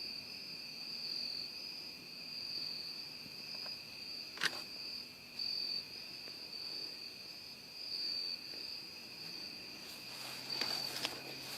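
Crickets chirping steadily in the background, with a single sharp click about four and a half seconds in and a few small clicks near the end.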